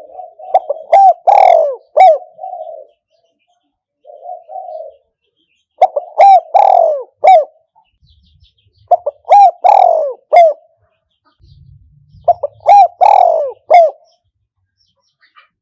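Spotted dove cooing, a caged decoy bird calling to lure wild doves. It repeats its call four times, about every three to four seconds, each a quick run of short coos around one longer coo, with a softer coo between the first two calls.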